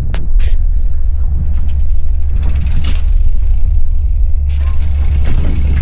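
Wind buffeting the microphone: a steady low rumble, with a short rush of hiss about four and a half seconds in.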